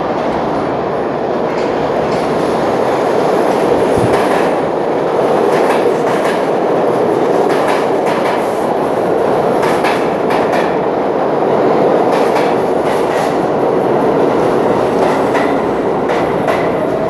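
New York City subway train running in the underground station: a loud, steady rumble of wheels on rail, with scattered clicks from the wheels passing rail joints.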